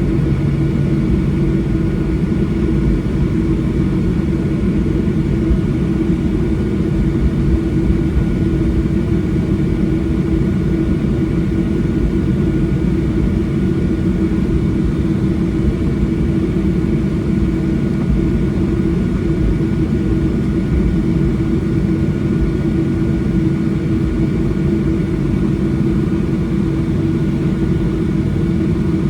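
Boeing 737-800 cabin noise: the CFM56 jet engines running steadily, a constant loud drone with a steady low hum and fainter higher whines that do not change.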